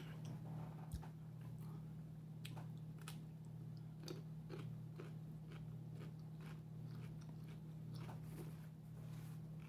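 Mouth-close chewing of a crisp pickle: a run of short, irregular crunches with bites in between, over a steady low hum.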